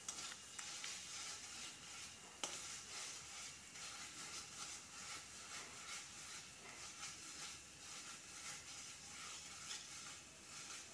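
Spice masala with yogurt and tomato purée frying on a high flame in an aluminium kadhai, sizzling faintly while a spatula stirs and scrapes it, with one sharp tick about two and a half seconds in.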